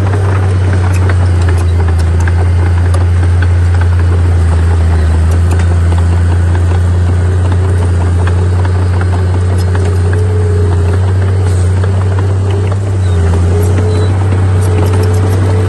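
Heavy earthmoving machine's diesel engine running steadily under load, a deep, even drone with scattered faint clicks. It eases off briefly about thirteen seconds in, then picks up again.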